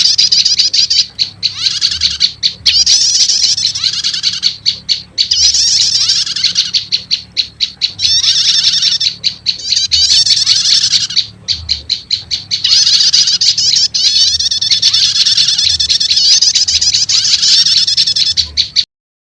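Bird-lure recording of prenjak lumut calls combined with prenjak setater calls. Runs of rapid dry ticks alternate with bursts of busy high twittering over and over, then stop abruptly near the end.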